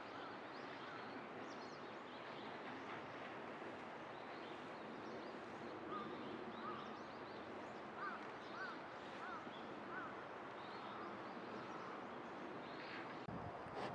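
A bird calling in short chirps, repeated several times in quick succession around the middle, over a steady low background hiss.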